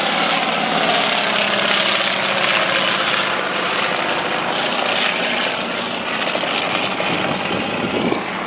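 Propeller engines of WWI-type biplanes and triplanes droning steadily as the aircraft fly a mock dogfight overhead.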